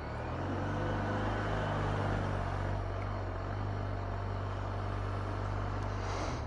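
BMW R1250 RT's boxer twin engine running under way, its note rising a little over the first second or two and then holding steady, with wind and road noise around it.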